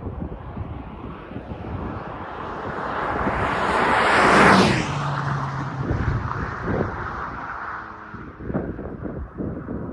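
VW MK7.5 GTI's turbocharged 2.0-litre four-cylinder, fitted with a GTI TCR muffler, passing by under power: the exhaust note grows louder, peaks about four and a half seconds in, then drops in pitch and fades as it pulls away. There is wind noise on the microphone.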